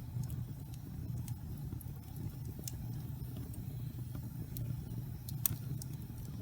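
Wood log fire burning with a steady low rumble, and scattered sharp crackles and pops from the logs, one louder pop near the end.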